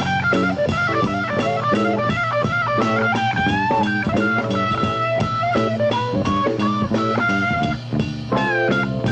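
Live blues-rock band playing an instrumental break: a lead guitar line with bent notes over chords, bass and drum kit keeping a steady beat.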